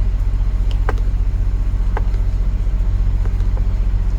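Steady low rumble of an idling semi-truck's diesel engine, with a few faint light clicks about one and two seconds in.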